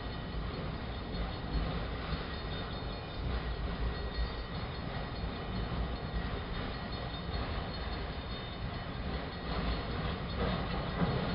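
BNSF autorack freight train's cars rolling past, a steady rumble of wheels on rail that grows rougher and a little louder near the end.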